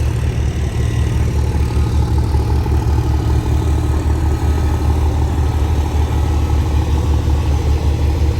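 Truck engine running steadily at low revs, a deep pulsing rumble.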